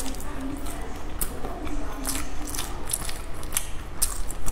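Close-miked wet chewing and lip smacks of someone eating sticky rice, with sharp irregular mouth clicks about three times a second.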